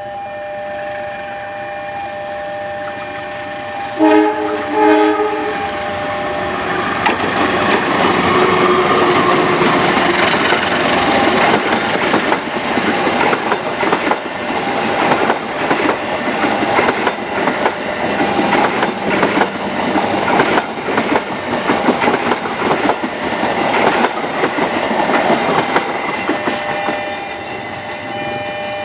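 A train sounds its horn in a few short multi-note blasts about four seconds in, then passes close by for about twenty seconds, its wheels clattering over the rail joints. A steady two-note tone is heard beneath at the start and again near the end.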